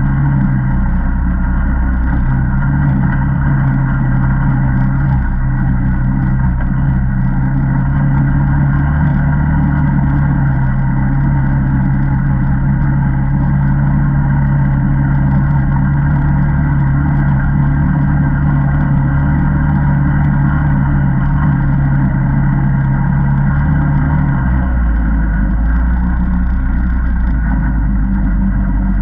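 ATV engine running at a steady pitch, its note dropping lower about twenty-four seconds in.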